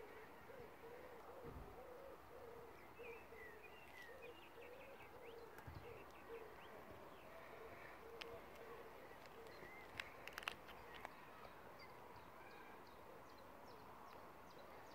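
Faint outdoor quiet with a bird repeating a low hooting note over and over, higher chirps from smaller birds, and a few sharp clicks about two-thirds of the way through.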